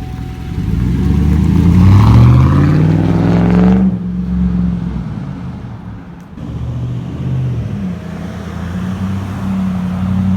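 Chevrolet Tahoe's V8 running through a straight-piped exhaust with the muffler and resonator deleted: one long rev climbing for about three seconds, cut off sharply, then settling back to a loud, uneven idle with a couple of lighter blips.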